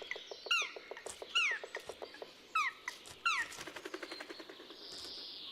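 Black woodpecker chiselling out a nest cavity in a tree trunk: a string of sharp bill taps on wood, quickening to a fast run of knocks about three to four seconds in. Short bird calls, each falling in pitch, come roughly once a second through the first half.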